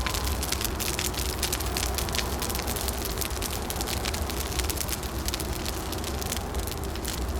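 Wood fire crackling with dense, irregular pops over a steady low rumble.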